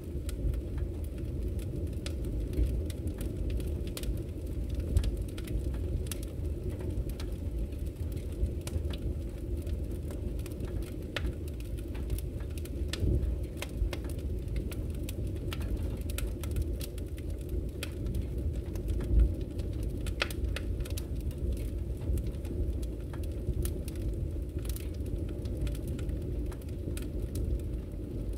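Wood fire in a fireplace crackling: irregular sharp pops and snaps over a steady low rumble of the flames, with one stronger pop a little past the middle.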